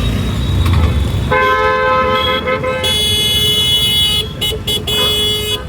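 Vehicle horns honking in road traffic: a long held horn starts about a second in, a second horn joins it, and near the end come several short toots.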